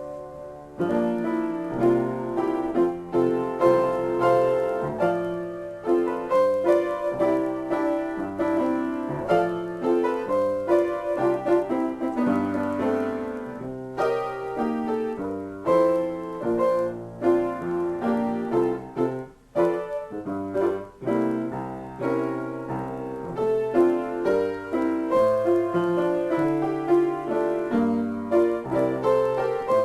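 Solo piano playing slow chords and melody notes, the notes ringing on between strikes, with a short near-pause about two-thirds of the way through.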